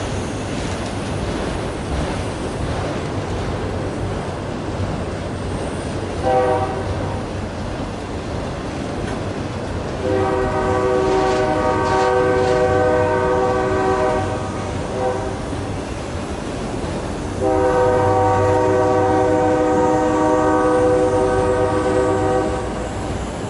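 Freight train rumbling along with a multi-chime locomotive air horn sounding: one short blast, then two long blasts with a brief one between them.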